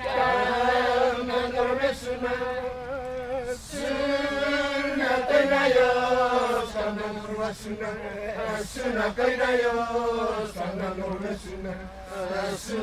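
Performers chanting a traditional song, sung in long held phrases with short breaks between them.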